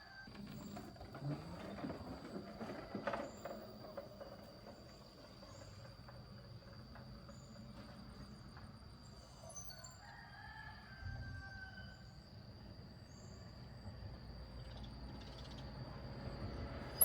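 Faint rooster crowing in the background, with small birds chirping and a low hum coming in about two-thirds of the way through.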